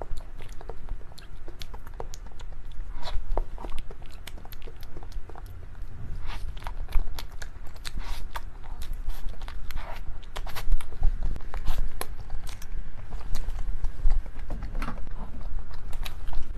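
Close-miked eating sounds: irregular wet clicks and smacks of biting into and chewing a soft lava cake.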